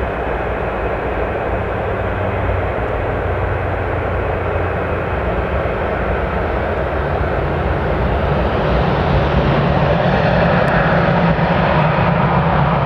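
Jet engines of an Airbus A320-200 running as a steady, loud rumble that grows louder and brighter over the second half.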